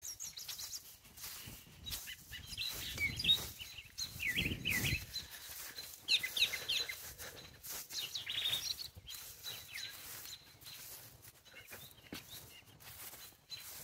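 Songbirds chirping and singing in short bursts of quick high notes, several phrases with pauses between them.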